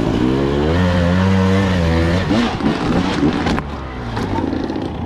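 Dirt bike engine running, its pitch swelling and easing, then turning ragged and irregular about two seconds in.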